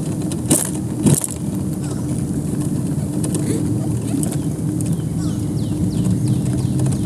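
Birds calling with many short, quick falling chirps, over a steady low hum. Two sharp clicks sound about half a second and a second in.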